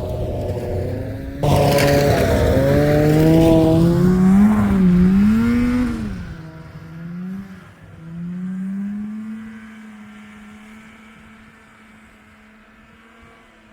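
Snowmobile engine revving, its pitch climbing and dipping as the throttle is worked. About six seconds in it drops away and fades to a steady distant drone as the machine moves off.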